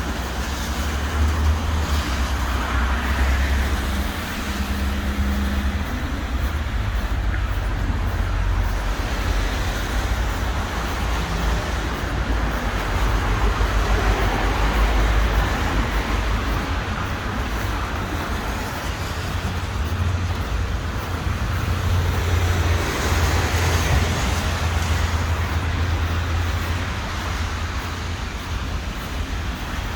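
City street traffic: vehicles passing with a continuous rumble and hiss, the low rumble swelling and easing several times as they go by.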